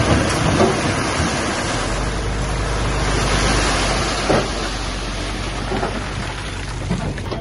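A heavy diesel machine's engine running, with a loud, steady rushing noise over it.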